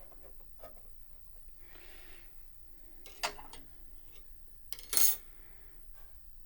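Small hard parts being handled during piano disassembly: scattered light clicks and clinks, a soft rub about two seconds in, a sharper click just after three seconds, and a louder brief clatter about five seconds in.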